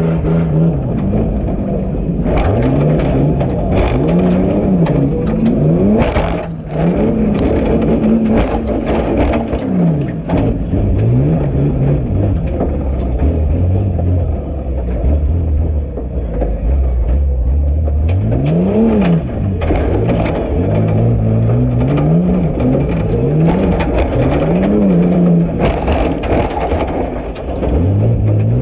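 Jeep Cherokee's engine revving hard, its pitch climbing and dropping again and again as the throttle is worked through a tough truck course, with sharp knocks and bangs now and then.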